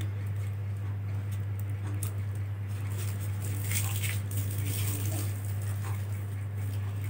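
Faint clicks and rustles of small parts being handled while an HDD caddy for a laptop is prepared, over a steady low electrical hum.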